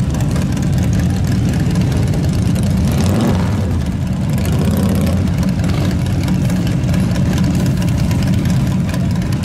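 Motorcycle engines running at idle, a steady, deep, low-pitched engine sound.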